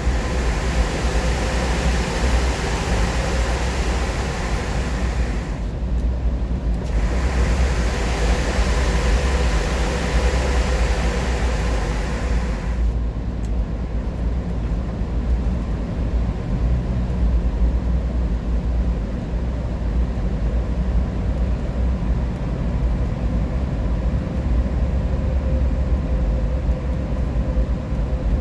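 Car driving at highway speed, heard from inside: a steady low road rumble with a faint whine, and a hiss of tyre and wind noise that dips briefly about six seconds in and fades away about thirteen seconds in.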